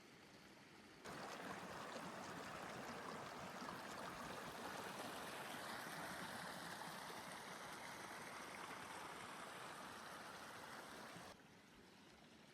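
Steady rush of water noise that starts abruptly about a second in and cuts off abruptly near the end.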